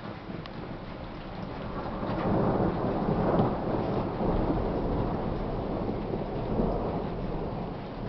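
Thunder rolling over steady rain: a long low rumble that swells about two seconds in, is loudest around three to four seconds, and slowly fades while the rain hiss continues.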